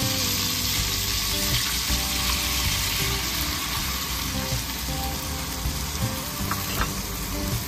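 Food frying in a pan, with a steady sizzle throughout.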